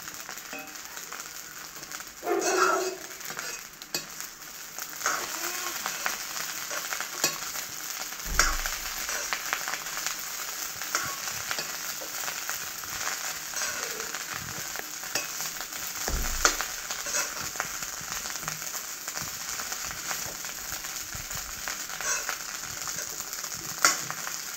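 Fried rice sizzling in a steel wok as it is stir-fried, with a metal spatula scraping through the rice and now and then knocking against the pan. Louder knocks come twice, about eight and sixteen seconds in.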